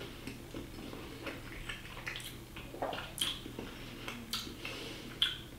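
Chewing a mouthful of flaky-pastry sausage roll: faint, irregular mouth clicks and soft crunches.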